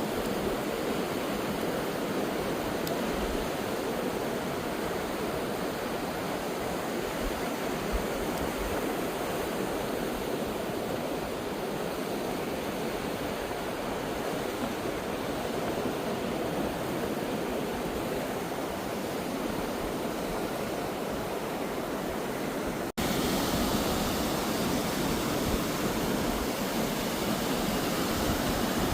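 Steady rushing of ocean surf, with an abrupt cut about 23 seconds in, after which the rush is a little louder.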